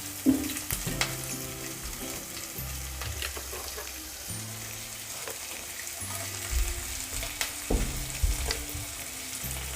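Chopped onion sizzling in hot oil in a kadhai, stirred with a spoon that now and then clicks and scrapes against the pan.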